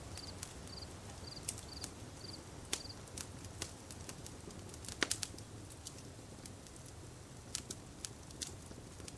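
Campfire crackling: irregular sharp pops and snaps over a low steady background, with a quick cluster of louder pops about five seconds in. A faint chirp repeats about twice a second during the first three seconds.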